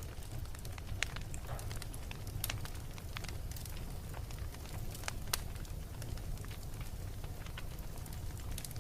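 Wood fire burning in a fireplace: a steady low rumble of flames with irregular sharp crackles and pops, a few of them louder, about a second, two and a half seconds and five seconds in.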